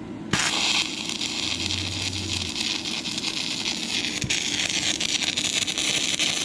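Stick-welding arc from a 6011 rod on rusty, painted steel, struck about a third of a second in and then burning steadily with a continuous frying crackle.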